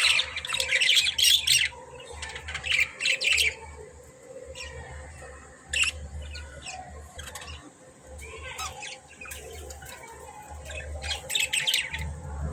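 Budgerigars chirping and chattering in quick bursts of high calls, densest at the start, around three seconds in and near the end, with single calls in between, over a faint low rumble.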